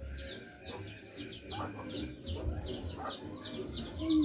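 Birds chirping in the background: a rapid, even series of short, high, falling chirps, about three to four a second, over a low rumble.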